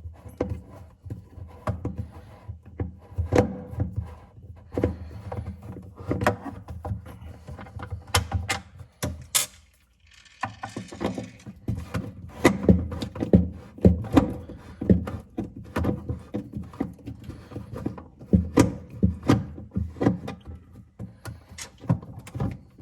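Phillips screwdriver loosening screws in a refrigerator's plastic interior, with the parts being handled: irregular clicks, taps and knocks.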